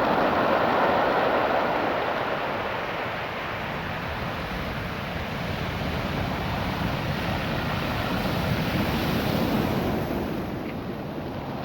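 Ocean waves washing up and back over a beach of small rounded stones, a continuous rushing hiss. It swells at the start, eases off in the middle, builds again with the next wave and falls away near the end.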